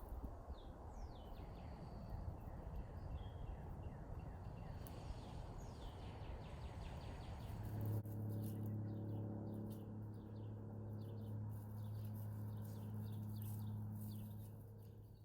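Small birds chirping over an outdoor rustling background. About halfway through, a steady low hum joins and fades out near the end.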